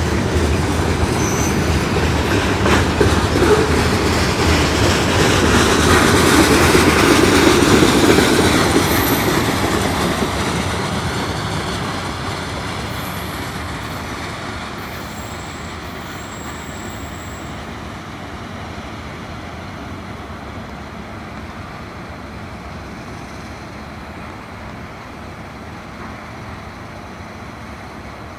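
Freight train cars rolling past close by on steel wheels, loudest a few seconds in, then fading steadily as the end of the train moves away down the track.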